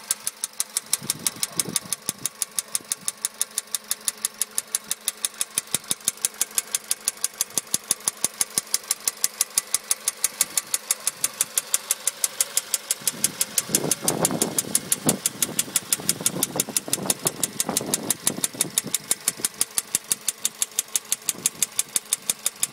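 Volkswagen Polo Sedan's 1.6-litre CFNA four-cylinder petrol engine idling warm with a sharp, even knock, about five or six a second. The knock is a fault that appeared after the pistons were replaced under warranty.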